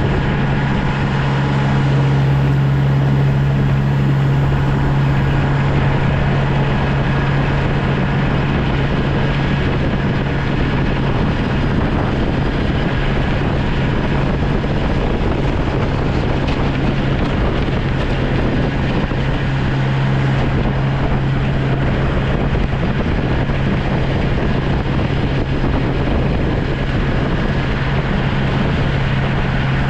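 Snow plow tractor's engine running steadily with a constant low drone.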